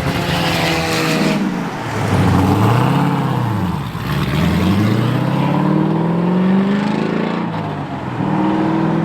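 A car engine revving: a short rev that rises and falls about two seconds in, then a longer climbing rev for about three seconds that drops off suddenly, before settling back to a steady note.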